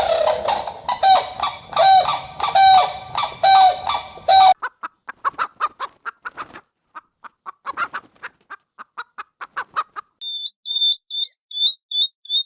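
Animal calls in three parts: a loud honking call repeated about twice a second, then a quieter rapid run of short clicking chirps, then high thin chirps near the end.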